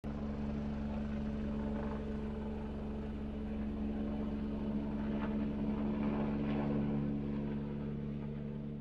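Small DC motor spinning a propeller, running with a steady hum.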